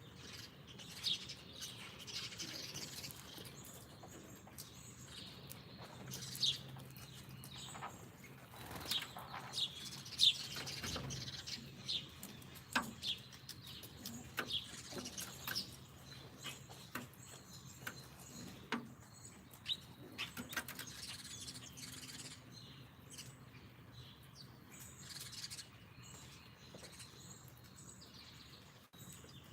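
Small songbirds chirping, many short separate chirps, busiest in the first twenty seconds and thinning out toward the end.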